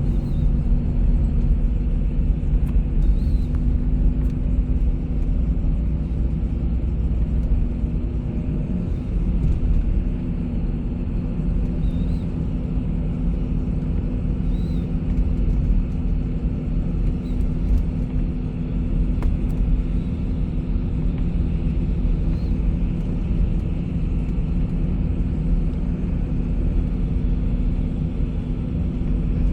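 Bus engine and road noise: a steady low drone and rumble while the bus drives along.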